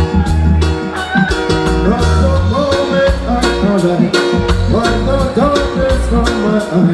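Band music with a steady drum beat, a prominent bass line and guitar chords, playing an instrumental stretch between vocal lines of an upbeat reggae-style song.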